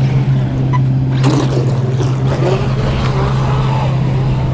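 Steady low engine drone that holds one pitch throughout.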